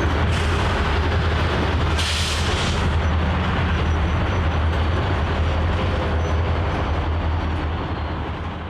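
Train rolling past on the rails: a steady rumble of wheels with a low drone, and a brief hiss about two seconds in. It fades near the end.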